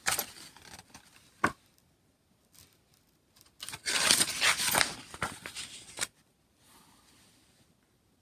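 Paper rustling as a picture book's pages are turned. There is a short rustle at the start and a click about a second and a half in, then a longer rustle of about two and a half seconds from about three and a half seconds in.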